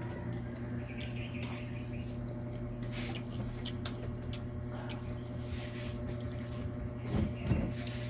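Wet eating sounds: someone chewing and lip-smacking on kinilaw, with scattered small clicks over a steady low hum.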